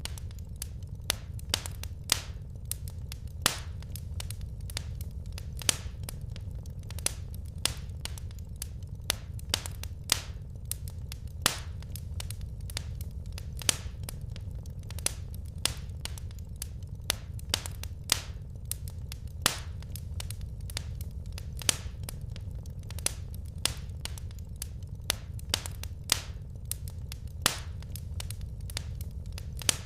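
Wood fire crackling: sharp, irregular pops and snaps, several a second, over a steady low rumble of the burning logs.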